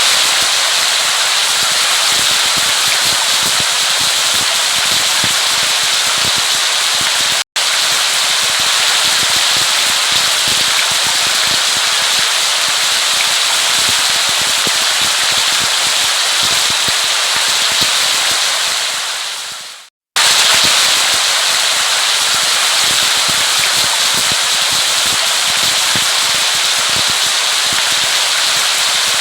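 Heavy rain falling steadily on a surface, a dense crackling hiss of drops. It cuts out for an instant about seven seconds in, and fades out and starts again about twenty seconds in, where the recording is looped.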